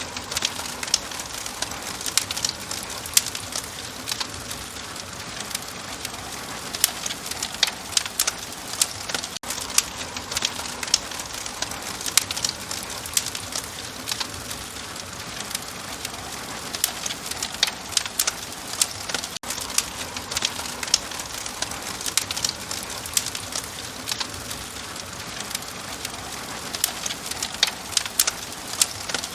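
Wood fire crackling: a steady soft hiss under frequent sharp pops and snaps.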